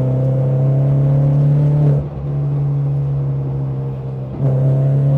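BMW 116i race car's four-cylinder engine running under throttle, its note slowly rising. About two seconds in it drops off suddenly and runs quieter, like a lift or gear change, then comes back loud near the end as the throttle is reapplied.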